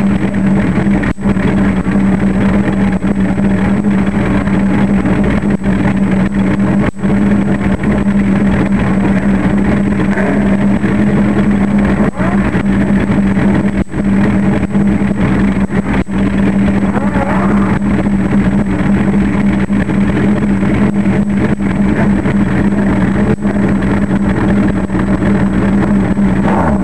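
Suzuki GSX-R1100 inline-four motorcycle engine running at a steady speed with a constant drone.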